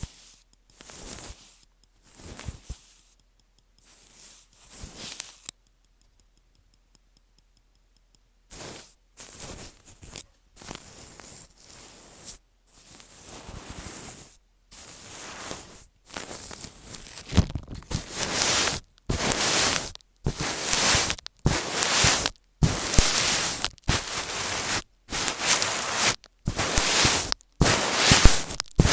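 Close-up ASMR scratching and rubbing strokes right on the microphone, coming in short scratchy strokes. After a few sparse strokes and a pause of a few seconds, they run at about one a second, getting louder and more continuous in the later part.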